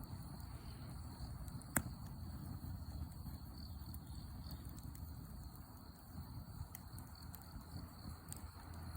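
Wood campfire burning with a low rumble and scattered sharp crackles and pops, the loudest pop about two seconds in.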